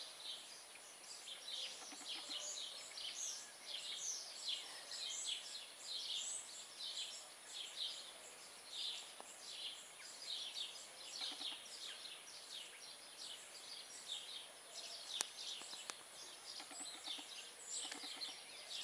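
Small songbirds chirping and twittering: a continuous, fairly faint run of short, high, falling notes, with a sharp click about fifteen seconds in.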